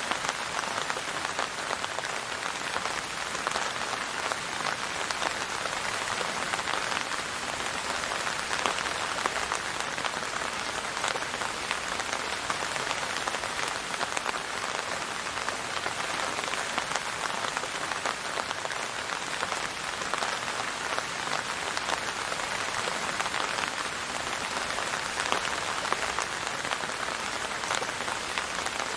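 Steady rain falling and pattering on a surface, a dense even hiss of many small drops with no change in intensity.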